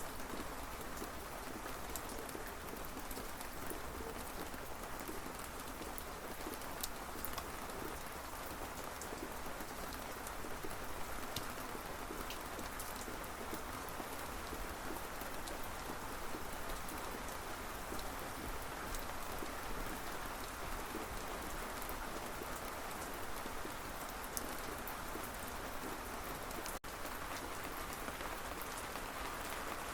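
Steady rain falling: a dense, even hiss with scattered ticks of single drops. The sound cuts out for an instant near the end.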